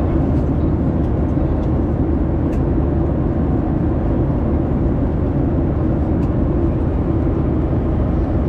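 Steady drone of an airliner cabin in flight, the engines and airflow running evenly.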